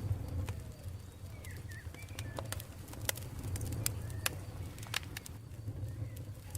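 Campfire crackling, with many irregular sharp pops over a steady low rumble, and faint bird calls in the background.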